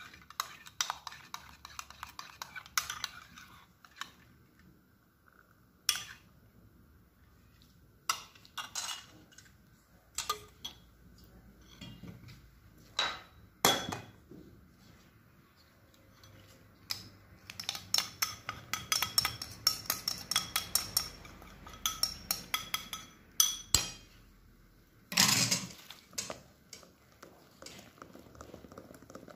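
Metal utensils clinking and knocking against bowls and dishes: scattered sharp clinks, with a quick run of rapid taps a little past the middle.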